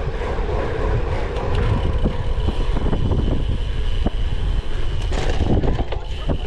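Wind buffeting the microphone of a camera riding along on a cyclocross bike in a race, with the bike rattling and knocking over rough ground.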